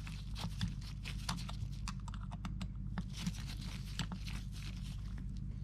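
A screwdriver tightening a small screw on an ATV carburetor, making irregular light clicks and scrapes over a steady low hum.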